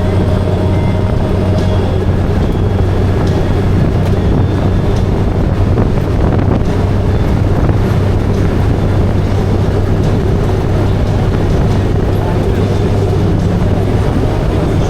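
Motorcycle engine running steadily at cruising speed with heavy wind rush, a constant low hum under a loud roar of air.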